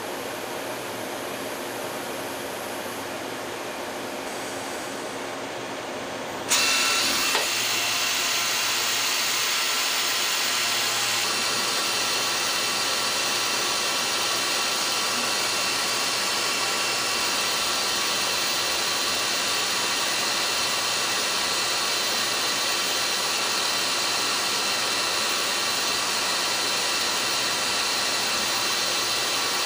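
Citizen M32VIII Swiss-type CNC lathe running with a steady mechanical noise. About six seconds in, the noise jumps suddenly louder and brighter, with a few steady high whining tones, and stays that way.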